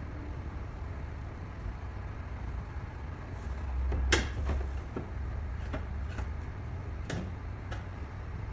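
A series of about seven short, sharp taps or clicks, the loudest about four seconds in and the rest spaced roughly half a second to a second apart, over a steady low rumble.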